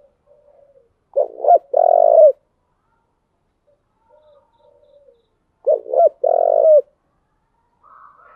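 Spotted dove cooing: two loud phrases about four and a half seconds apart, each two short notes followed by a longer held coo, with soft low coos in between.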